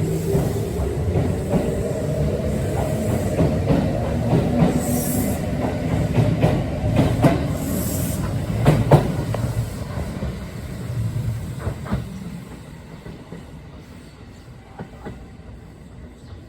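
Kintetsu 8000 series electric train running past: a rising motor whine early on, then wheels clacking over rail joints, and the sound fades away over the last few seconds.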